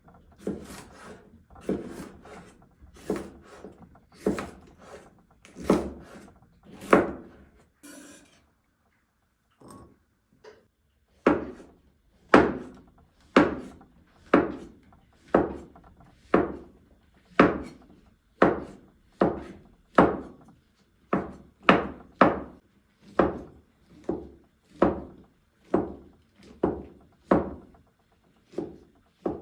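Kitchen knife cutting food on a wooden cutting board in steady strokes, a little more than one per second, each a short rasping cut ending in a knock. There is a brief pause about a third of the way through.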